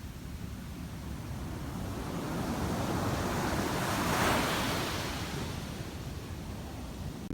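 Ocean surf on a beach: a wave builds, breaks about four seconds in and washes out again, with wind rumbling on the microphone.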